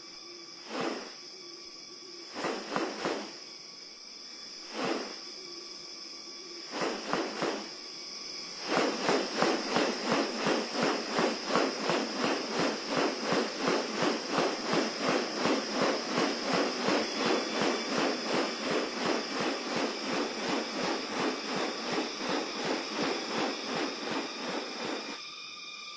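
Steady high insect whine of tropical rainforest, with a few short harsh calls at first. From about nine seconds a long run of rapid rasping pulses, about two to three a second, stops shortly before the end.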